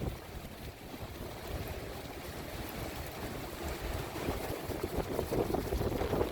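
Strong typhoon wind gusting, rumbling on the microphone.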